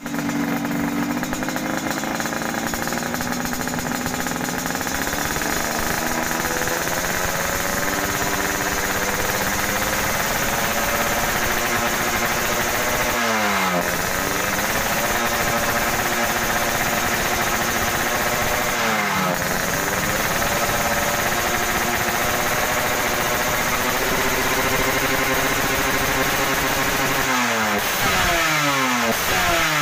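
Yamaha RX-series two-stroke single-cylinder motorcycle engine running through a 'Kobra' under-belly racing exhaust, its pitch slowly creeping up. Twice in the middle the throttle is blipped sharply, and near the end it is blipped several times in quick succession.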